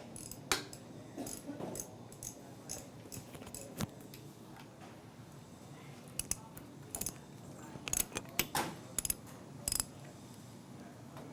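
Irregular clicks and clinks of small hard objects being handled, in two flurries: one over the first few seconds and a denser one from about six to ten seconds in.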